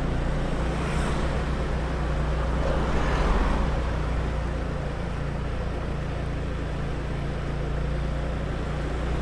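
Small motor scooter's engine running steadily while under way, with wind and road noise; the sound swells briefly about three seconds in.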